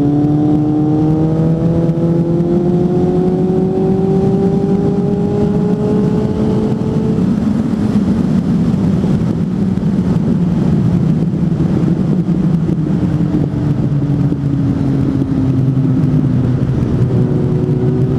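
Suzuki GSF 600 N's inline four-cylinder engine under way through an aftermarket exhaust, pulling and rising steadily in pitch for the first several seconds. Then it is mostly covered by a rush of wind noise, and comes back at a lower, steady pitch in the second half.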